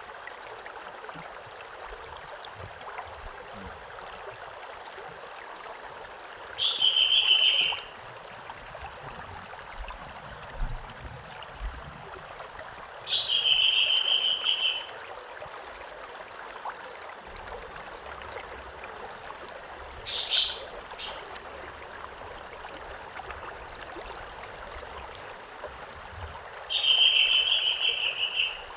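A stream running steadily, with a bird repeating a short call about every six or seven seconds and giving two quick rising notes near the middle.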